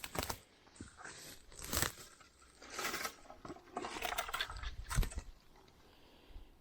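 Irregular crunching and rustling of forest undergrowth close to the microphone, a scatter of short scrapes and snaps with quiet gaps between them.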